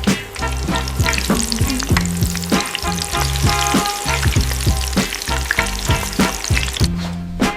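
Food frying in hot oil, a dense crackling sizzle, over background music. The sizzle cuts out about a second before the end, leaving the music.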